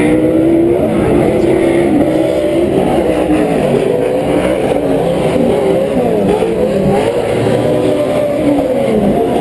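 Several PRO 4 unlimited four-wheel-drive short-course race trucks' V8 engines running hard on the track. Their pitches rise and fall and overlap as the trucks rev up and back off through the course.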